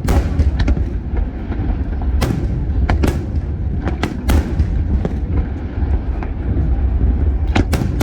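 Aerial fireworks bursting in an irregular series of sharp bangs, about eight in all, some in quick pairs, over a steady low rumble.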